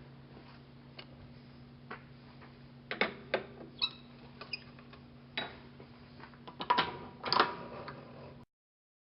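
Metal clinks and knocks from parts or tools being handled on a workbench, a dozen or so irregular strikes, a few with a short ringing tone, loudest near the end, over a steady electrical hum.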